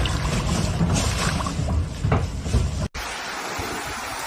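Rushing storm noise of wind and water, with heavy low rumbling on the microphone. About three seconds in it cuts off abruptly and gives way to a steadier, quieter hiss.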